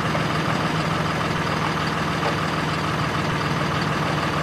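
A truck engine idling steadily, an even drone that neither rises nor falls.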